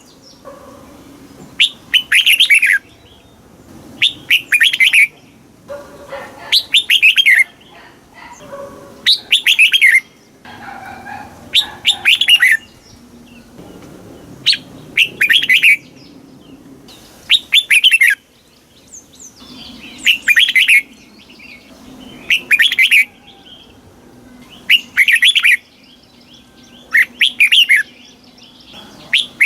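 Red-whiskered bulbul singing the same short, loud phrase over and over, about once every two and a half seconds; each phrase is a quick run of falling notes lasting about a second.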